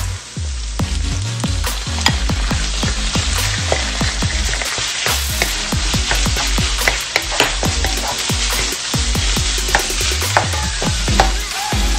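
Chopped aromatics and then ground pork sizzling in annatto oil in a nonstick wok. A wooden spatula stirs them, with frequent scraping clicks against the pan.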